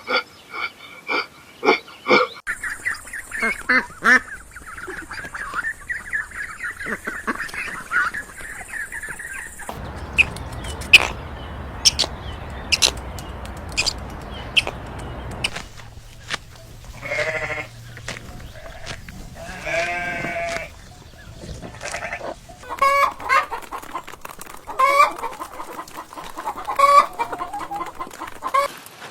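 Farm animals calling in a run of short clips: goats bleating and chickens clucking, with repeated short calls.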